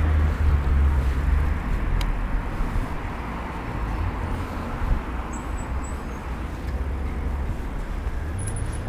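Steady low rumble of a vehicle on the move, engine and road noise without a break.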